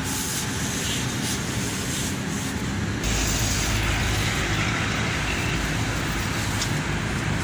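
Steady background noise, with a deeper low rumble coming in about three seconds in.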